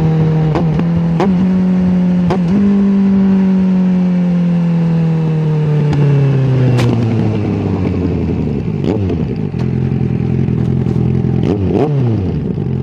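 Suzuki GSX650F inline-four running through an aftermarket Tiger exhaust. The revs are held with a few quick dips early on, then fall slowly to a lower steady speed, with sharp crackles from the exhaust now and then.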